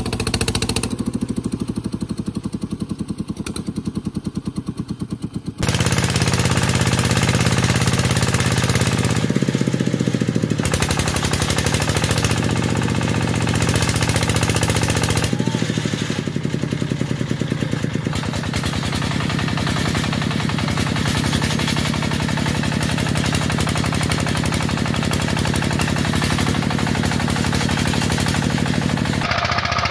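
Single-cylinder diesel engine of a walking tractor (power tiller) running under load, a fast, even chugging knock. It jumps louder about five seconds in and shifts abruptly several more times as one clip of a working tiller follows another.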